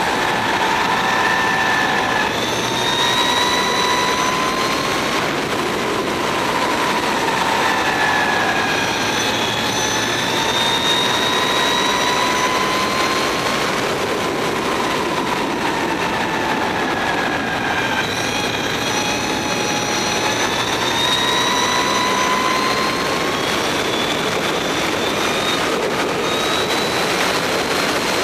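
Mavizen TTX02 electric motorcycle's motor and drive whining at racing speed over a steady rush of wind and road noise. The whine climbs slowly in pitch under acceleration, then falls away under braking, about four times.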